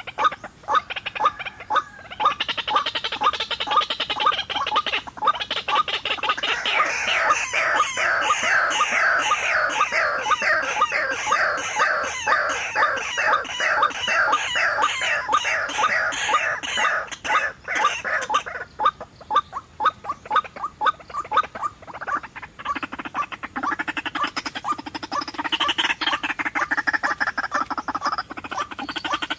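White-breasted waterhens (ruak-ruak) calling: a long run of fast, rhythmic repeated croaking notes, with a second, lower-pitched series of calls joining about two-thirds of the way in.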